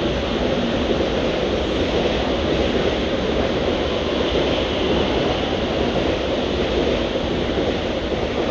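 Mumbai suburban electric multiple-unit (EMU) local train running past through the station, a steady, even noise of wheels on rails that holds throughout.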